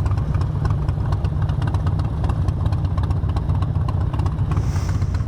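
Yamaha FZ-07's parallel-twin engine running steadily at a constant cruising speed, a low even drone with road and wind noise above it.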